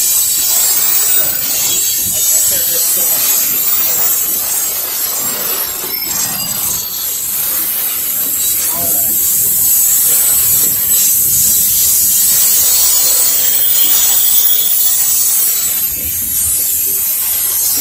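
Freight train of open-top coal cars rolling past, a steady noise of steel wheels on rail with a high hiss over it.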